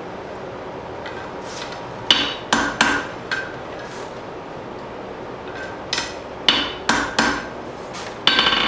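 Hammer blows on steel bar stock at an anvil, each with a short metallic ring. A few strikes come about two seconds in, then after a pause a quicker run of blows near the end.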